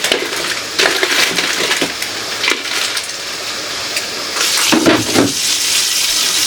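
Food containers and packaging clattering and crinkling as they are handled. From about four and a half seconds in, a steady rush like tap water running into the sink joins them.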